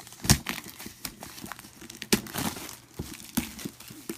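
Plastic wrapping crinkling and a cardboard game box being handled, with irregular rustles and sharp clicks, the loudest about a third of a second in and again just after two seconds.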